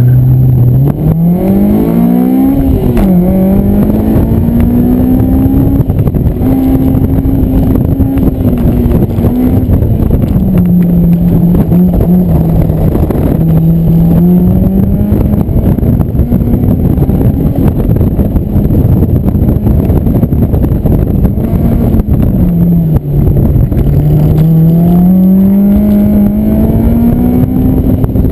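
Honda S2000's inline-four engine pulling hard through an autocross run. Its pitch climbs steeply at the launch and drops at an upshift about three seconds in, then rises and falls as the driver accelerates and lifts, with a deep drop a little before the end. Wind buffets over the open cockpit.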